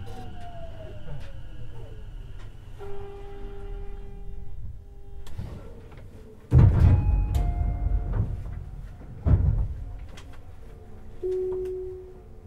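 Tobu 50090 series electric train coming to a stop: the traction motor's whine falls in pitch and dies away, then a held tone sounds. Two loud thuds follow a few seconds apart, each with a rush of noise that fades, fitting the doors opening at the station. A short held tone sounds again near the end.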